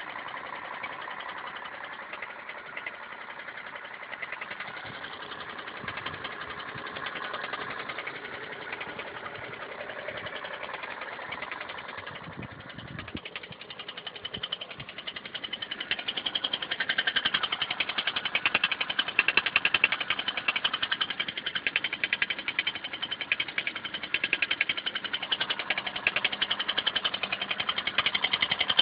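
Toyota 1ZZ-FE inline-four engine running with a fast, steady knock, which becomes louder about halfway through. The knock appeared after an oil change and about 800 km of driving.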